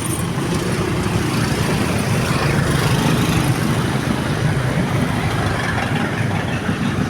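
Motor vehicle engines running steadily amid road traffic noise, with a low engine rumble throughout.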